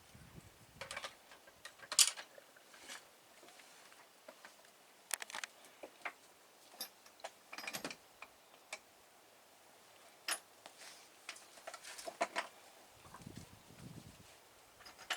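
Sporadic light clicks and knocks of tie-down hardware being handled while motorcycles are strapped down, with a brief low rumble near the end.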